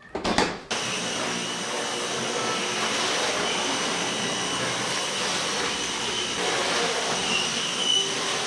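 Vacuum cleaner starts with a brief loud surge just after the start, then runs steadily.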